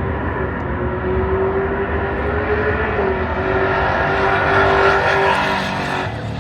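A vehicle engine running at a fairly steady pitch, growing louder and brighter, then dropping off sharply near the end.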